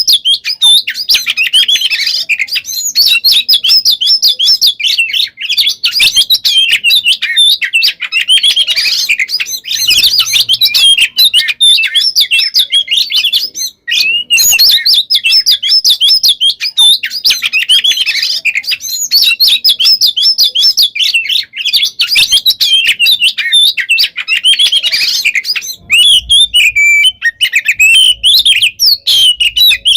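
Oriental magpie-robin (kacer) singing a dense, nonstop run of rapid chirps, trills and whistles, with one short break about halfway through.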